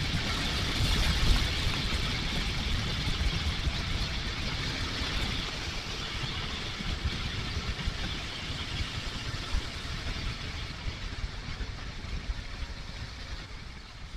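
Kawasaki KLR650 single-cylinder motorcycle engine running under way, with steady wind rush over it. The sound slowly gets quieter over the stretch.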